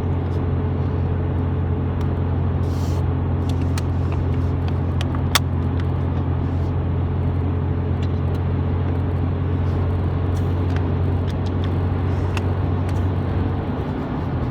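Steady drone of a truck's engine and tyres heard from inside the cab at highway speed, about 60 mph, with a few faint clicks. The drone eases slightly near the end.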